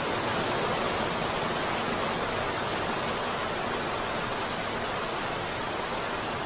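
Heavy rain falling steadily: an even, unbroken hiss with no distinct drops or thunder.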